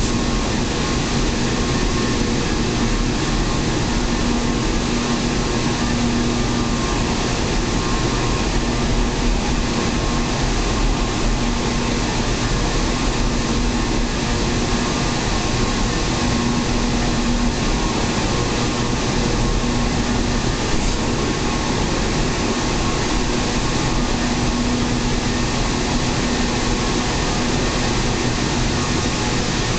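Electric local train running steadily at speed, heard from inside the passenger car: an even rumble of wheels on rails and running gear, with a faint steady hum underneath.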